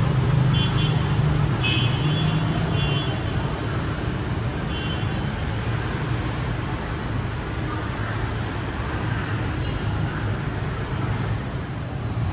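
Busy street traffic with engines running steadily, and several short horn toots in the first few seconds and again about five seconds in.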